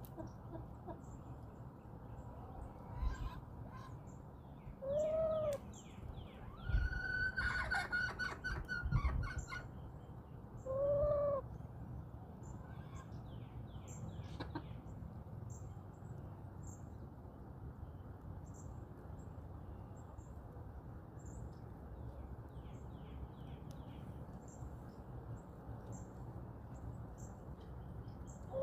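Backyard hens calling: short calls that rise and fall, about five and eleven seconds in, with a louder run of calls and a few knocks around seven to nine seconds. Small songbirds chirp throughout over a steady low background noise.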